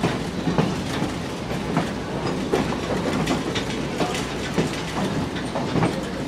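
Passenger train car rolling along the track, heard from aboard: a steady rumble with irregular clicks and knocks from the wheels running over the rail.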